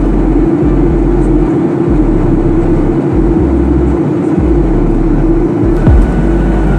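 Passenger airliner in flight, a loud steady roar of engines and airflow with an uneven low rumble underneath. One short thump comes near the end.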